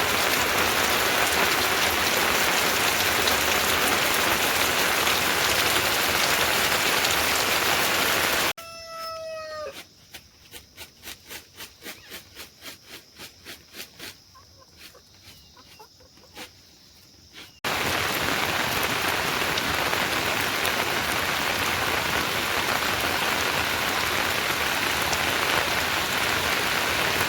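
Heavy rain pouring steadily. About 8.5 s in it cuts to a quieter shot where a rooster's crow trails off, followed by soft regular ticks about twice a second over a faint steady high tone; the heavy rain comes back about 17.5 s in.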